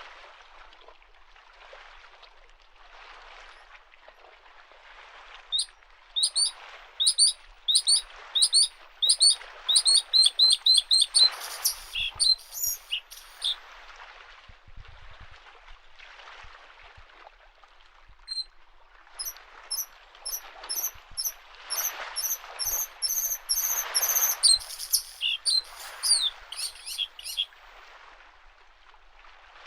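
Bluethroat singing two long phrases of quickly repeated high notes that speed up, over small lake waves lapping against the shore in soft, even washes.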